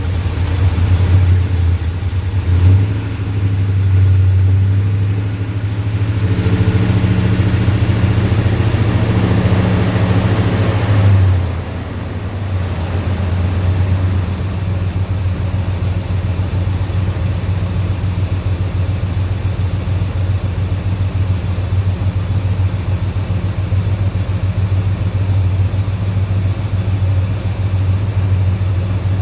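2002 Ford F-150's engine running just after being started, at a raised idle for about the first eleven seconds, then dropping back and settling to a steady idle. The engine computer is relearning its idle after being unplugged.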